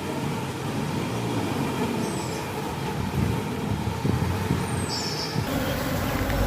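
Steady hum of an open Apis cerana honeybee colony during a hive inspection, mixed with low rumbling handling noise. Two short high chirps come about two and four and a half seconds in.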